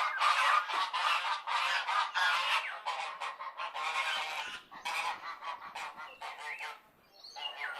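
Domestic geese honking, many overlapping calls in quick succession, with a brief pause near the end.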